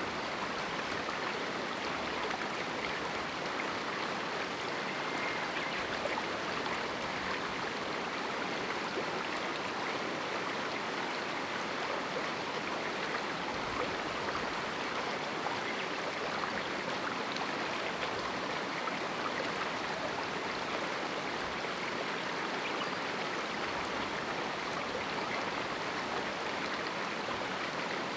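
A small river running over rocks in a canyon: a steady rushing and babbling of flowing water.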